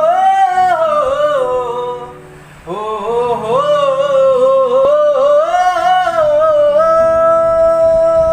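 Wordless high-pitched solo singing, an alaap-style opening: two ornamented phrases that slide and bend in pitch, the second settling onto a long held note near the end. Steady sustained low tones of an accompaniment sound underneath.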